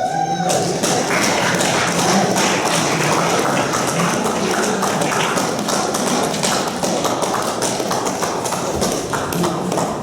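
Audience applauding: a dense, steady patter of clapping hands that fades away near the end, with a brief pitched cry at the very start.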